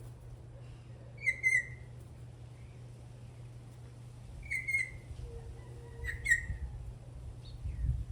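Venezuelan troupial calling: three short two-note calls a few seconds apart, over a steady low hum.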